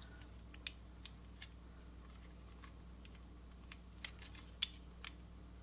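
Scattered light clicks and taps of a desktop computer's parts being handled and fitted together, the loudest two a little past the middle, over a faint steady low hum.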